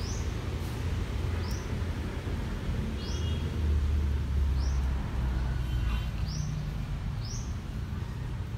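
A small bird chirping, one short high chirp about every second and a half, over a steady low rumble.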